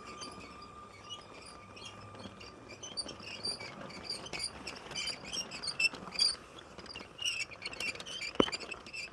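LEGO train rolling along plastic LEGO track, its wheels making a stream of irregular small high-pitched clicks and squeaks, with one sharper click near the end.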